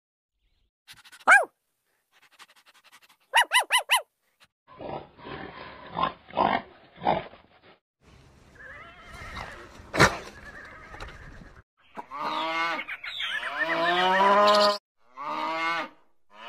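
A string of animal sounds. A puppy's short yelp comes about a second in, with a quick run of four yips near four seconds. A noisy stretch with a few thumps follows. From about twelve seconds in, Holstein cows moo: one long moo, a shorter one, and a third starting at the end.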